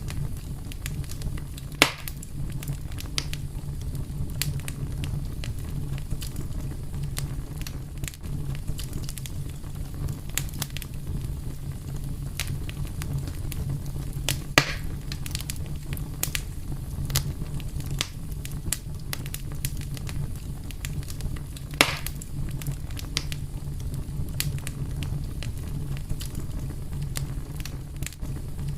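A fire crackling over a steady low rumble, with many small clicks and three louder pops spread through.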